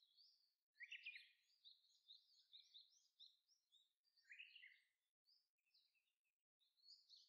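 Faint songbird singing: a busy run of quick high chirps and trills, strongest about a second in and again around four and a half seconds.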